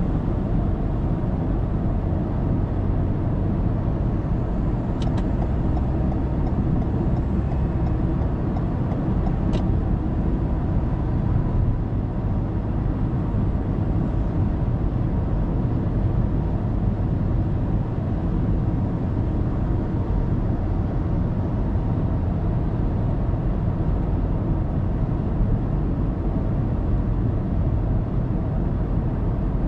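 Steady road and engine noise of a car cruising on an expressway, heard from inside the cabin through a dashcam, with two faint clicks in the first third.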